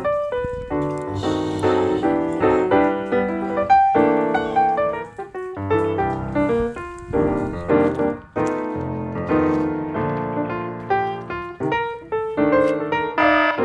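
Background piano music: a solo piano playing a quick run of notes and chords.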